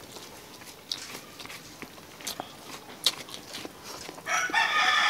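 People chewing food, with scattered small mouth clicks. Near the end a rooster starts crowing, one long call that is the loudest sound.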